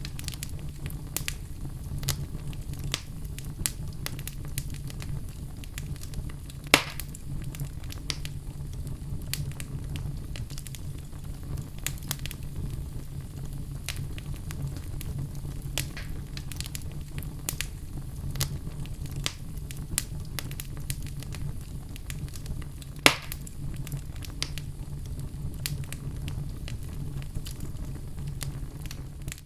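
Fire crackling in a fireplace: a steady low rumble with frequent sharp crackles, and two louder pops, about seven seconds in and near twenty-three seconds.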